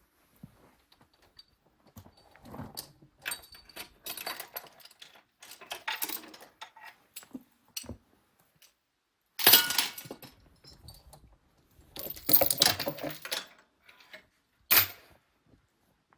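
Steel rigging chain and hardware being handled: irregular metal clanking and rattling, with louder clatters about two-thirds of the way through and one sharp metal knock near the end.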